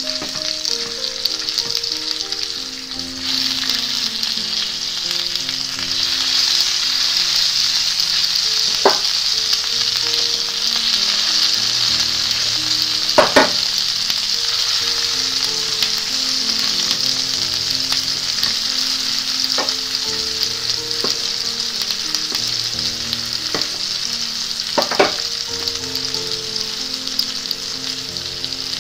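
Oil sizzling steadily under chicken seekh kebabs shallow-frying on a flat pan over a medium flame. A handful of sharp taps come as the bamboo-skewered kebabs are turned over on the pan.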